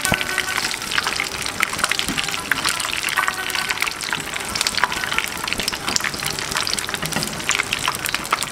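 Batter fritters deep-frying in hot oil in a frying pan, with a dense, steady sizzle and crackle.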